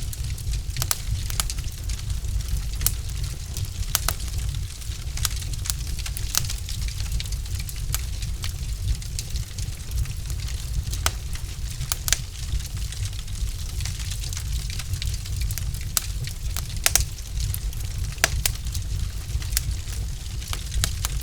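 Wood fire in a fireplace crackling: many sharp, irregular pops and snaps over a steady low rumble of burning logs.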